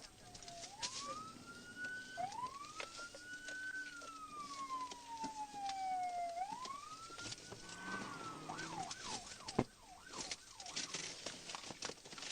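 Police car siren in a slow rising and falling wail, switching to a fast yelp a little past two-thirds of the way through, over crackly, low-quality audio with scattered clicks and one sharp knock.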